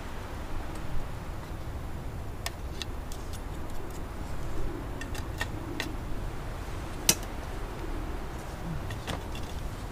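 Cutlery clinking against plates or mess tins while eating: about eight short, sharp clicks scattered irregularly, the loudest about seven seconds in, over a steady low background noise.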